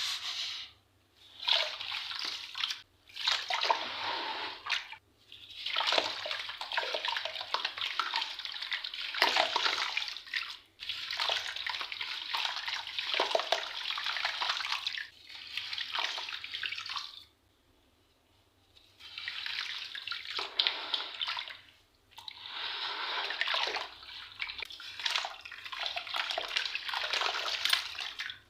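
Pressed sand balls and shapes crumbling in water, giving a crackly, fizzing hiss. It comes in repeated bouts of a few seconds each, with short pauses between them and one longer pause a little past halfway.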